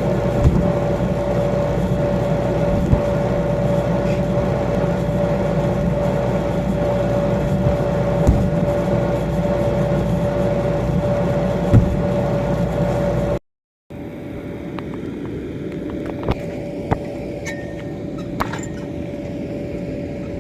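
A steady machine hum with a constant mid-pitched tone over a low rumble, broken by a few sharp thumps. After a sudden cut about two-thirds of the way through, the hum goes on more faintly with a few light clicks.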